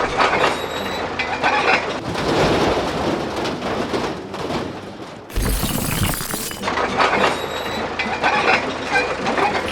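Noisy crashing and clattering, with a loud burst of hiss about five and a half seconds in.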